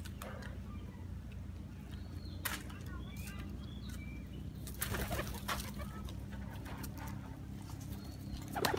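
Birds calling outdoors in short, high chirps, with a few sharp clicks or flaps, the loudest about five seconds in, over a steady low hum.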